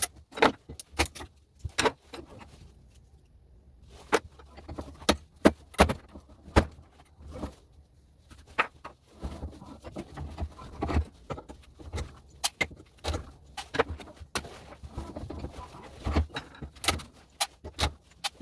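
Irregular sharp metallic clicks and clinks, dozens in quick succession with a couple of short pauses: side cutters working brass pins out of plastic household plugs held in a vise, and the loose metal parts knocking together.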